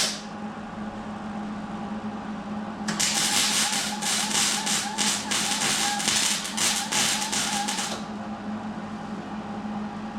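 Electric arc welding: a crackling, sputtering weld runs for about five seconds, starting about three seconds in and cutting off sharply, over a steady machine hum.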